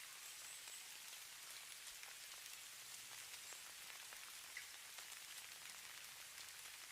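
Falling snow: a faint, steady hiss scattered with many tiny ticks of flakes landing.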